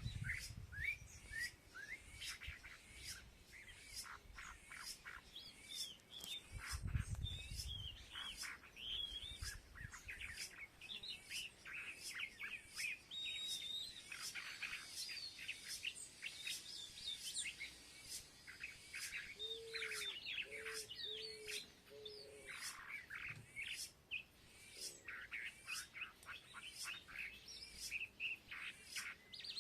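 Many small birds chirping and tweeting at once, the calls overlapping continuously, with many short sharp clicks among them. A low rumble comes about seven seconds in, and a short series of four lower notes a little past the twenty-second mark.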